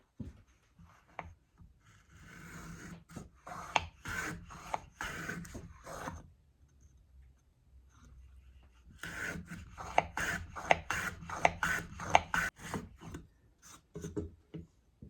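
Plow plane cutting a groove along the edge of an elm board: quick repeated strokes of the blade shaving the wood. The strokes come in two runs with a pause of a couple of seconds between.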